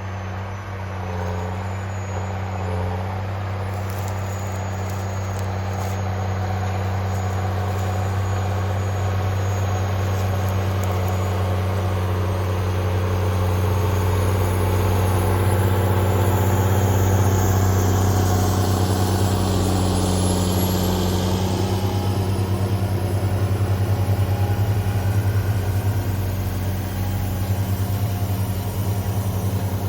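Engine running steadily with a low, even drone that grows slowly louder over the first half.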